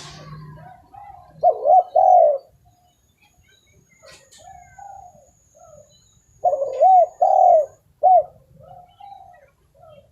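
Spotted dove (tekukur) cooing: two phrases of loud, rounded coos, one near the start and one past the middle, with softer coos trailing after each.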